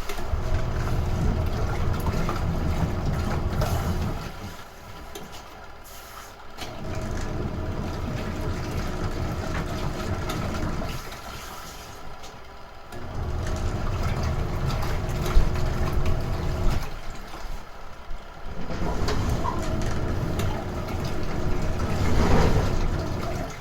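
Retro-style washing machine agitating a wash load. Its motor runs with a low rumble for about four seconds at a time, with a quieter pause of about two seconds between runs.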